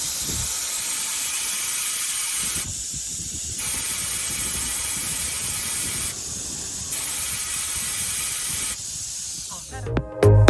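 Compressed air hissing from the Johannsen T86 long-belt sander's pneumatic system, switching on and off in three bursts of about two seconds each.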